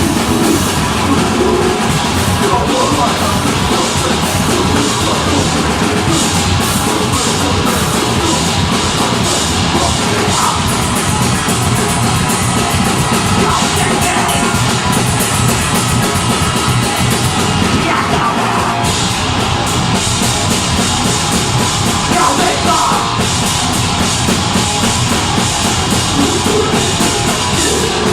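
Deathgrind band playing loud and live: distorted guitars and bass under fast, dense drumming, with no pauses.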